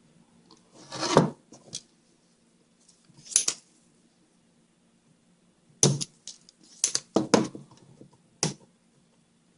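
Hand tools knocking and clinking against a circuit board and workbench during desoldering: a handful of separate sharp knocks and clatters, with a cluster of them in the second half.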